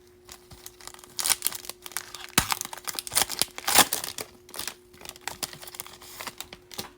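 Foil wrapper of a Bowman baseball card pack being torn open and crinkled by hand, in irregular rustling bursts with a sharp click about two and a half seconds in.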